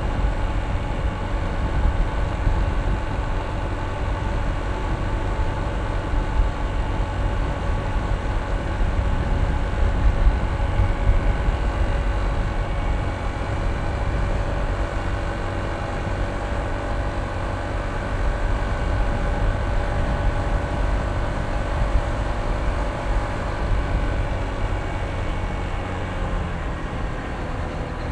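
Honda ADV160 scooter's single-cylinder engine running at an even pace while riding, with a steady low wind rumble on the microphone.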